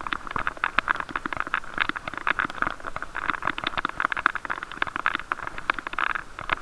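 Riding noise of a bicycle picked up by an action camera sealed in a waterproof case: a muffled hiss with constant, irregular clicking and knocking from the case and its mount jolting over the road.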